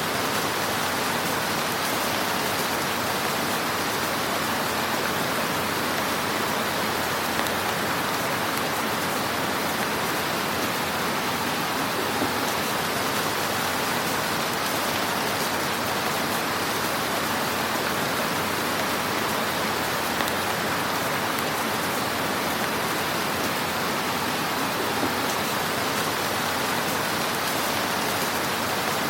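Wood fire in a fireplace crackling steadily over a dense hiss, with a few slightly sharper pops.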